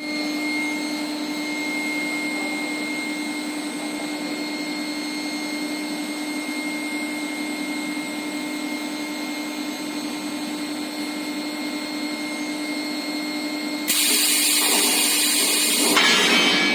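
Induction annealing furnace for steel pipe running with a steady hum and a high whine. About fourteen seconds in, a loud hiss starts suddenly and joins it.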